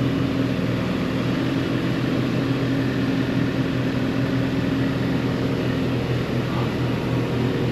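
Band sawmill running steadily with its electric motor humming, a constant machine drone with no knocks or changes.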